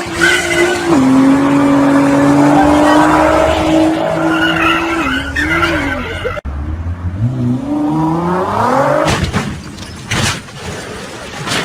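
A car engine held at high revs with tyres skidding. The sound cuts off abruptly about six seconds in, then an engine revs up, rising in pitch, with a few noisy bursts near the end.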